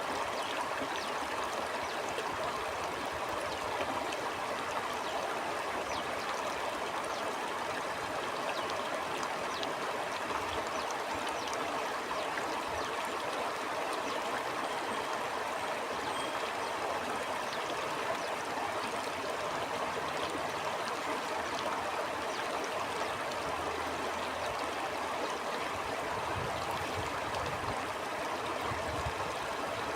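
Stream water flowing and burbling steadily over rocks.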